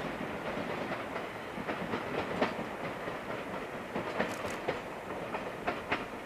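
JR Hokkaido KiHa 283 series diesel express train running away over station points, its wheels clacking irregularly over the rail joints and turnouts above a steady rumble of running noise.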